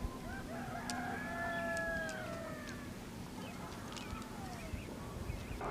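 Rooster crowing: one long call that holds its pitch and then falls away at the end, followed by a shorter falling call, with a few faint clicks.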